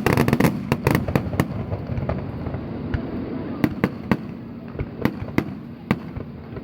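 Aerial fireworks bursting: a fast cluster of sharp cracks and bangs in the first second and a half, then scattered single bangs a few seconds in.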